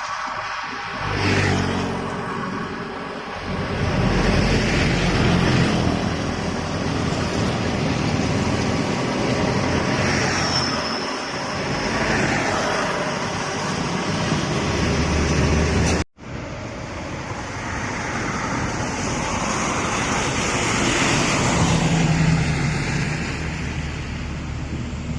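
Road traffic on an uphill road: cars and trucks passing one after another, their engines running as they climb. The sound drops out abruptly for a moment about two-thirds of the way through.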